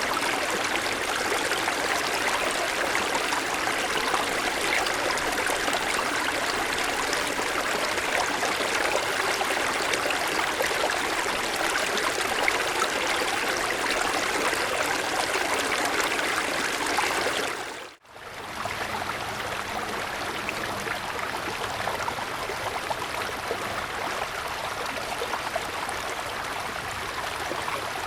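Mountain stream flowing steadily over stones. About two-thirds of the way through, the sound fades out for a moment and comes back a little quieter.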